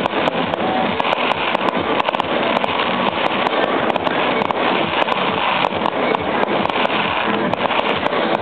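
Distant fireworks display: a dense, continuous run of pops and crackles, several a second, over a steady hiss.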